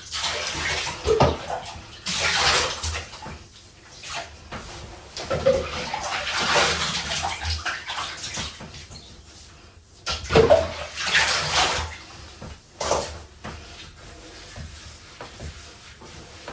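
Water splashing and pouring in a bathtub while a pet is being washed, coming in uneven swells of a second or two with quieter gaps between them.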